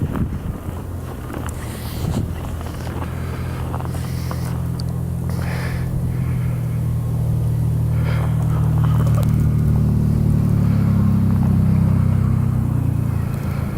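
A heavy vehicle's engine rumbles low and steady, building over about ten seconds to its loudest near the end and then fading as it passes close by. Wind on the microphone runs underneath.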